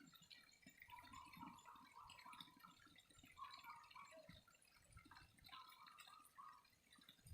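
Faint trickling water with irregular drips and small splashes.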